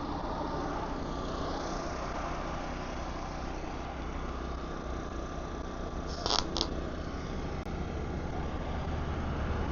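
An engine running steadily with a constant hiss over it, and two brief sharp hisses about six seconds in.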